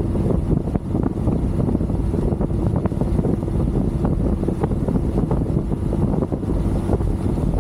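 Heavy wind noise buffeting the microphone on a moving motorcycle, with the engine's steady drone underneath.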